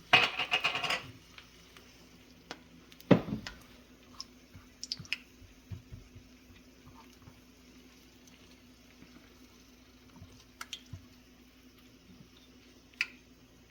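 Quiet kitchen handling sounds: a short loud pitched burst at the start, a sharp knock about three seconds in, then scattered small clicks over a faint steady hum.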